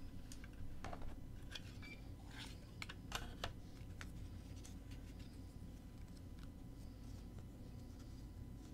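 Handling of a plastic cassette tape case and its paper insert: a run of small clicks and short scrapes for a few seconds, then only faint rustling over a low steady hum.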